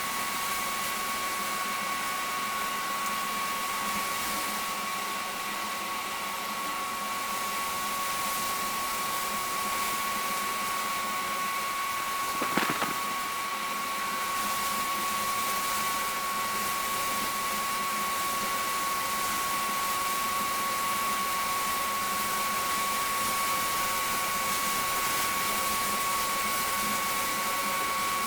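Pressure washer running steadily: a constant hiss of the water jet with a steady high whine, and one brief knock about halfway through.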